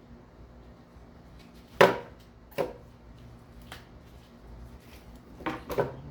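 A few sharp knocks and clunks from work on an engine being stripped down, as tools and parts are handled. The loudest comes about two seconds in, a smaller one follows, and a quick pair comes near the end.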